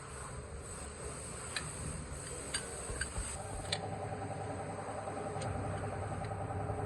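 Mahindra Bolero engine running steadily with a low rumble and a few sharp ticks; about halfway through a higher mechanical tone joins in.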